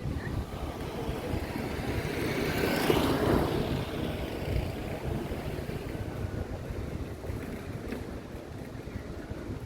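Outdoor street ambience with wind buffeting the microphone; a vehicle passes, its noise swelling to a peak about three seconds in and then fading.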